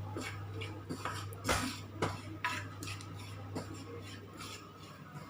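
A spoon scraping and stirring dry spice powders around a hot pan in irregular strokes as they are lightly toasted, over a steady low hum.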